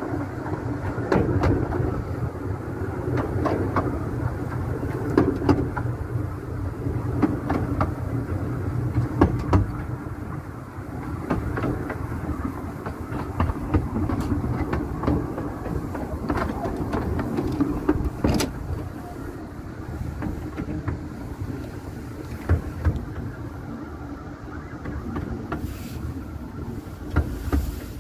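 Passenger carriage of a 15-inch gauge steam-hauled train running along the line, heard from an open window: a steady rumble with irregular clicks and knocks of the wheels over the track, and one sharper crack about two-thirds of the way through.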